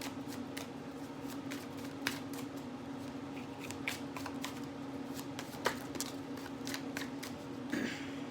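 Tarot cards being shuffled and handled, a string of irregular light snaps and flicks, the sharpest a little past halfway. A steady low hum runs underneath.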